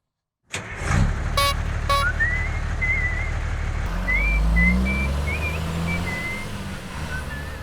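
A truck engine comes on about half a second in and runs with a low rumble, revving up around the middle, with two short beeps just after it starts. Over it a person whistles a wavering tune.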